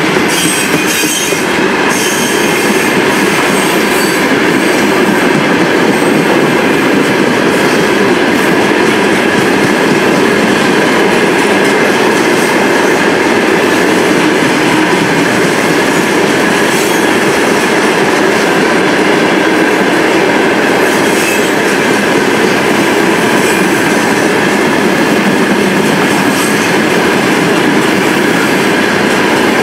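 Freight wagons (hopper cars, then gondolas loaded with ballast) rolling past steadily: loud continuous rumble of steel wheels on rail, with scattered clicks as wheelsets cross rail joints.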